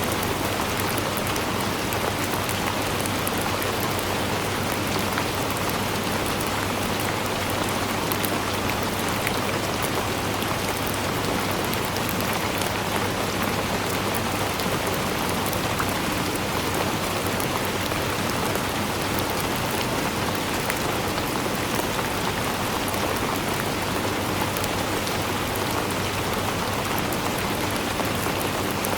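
Steady rainfall, with dense fine patter of drops on a surface.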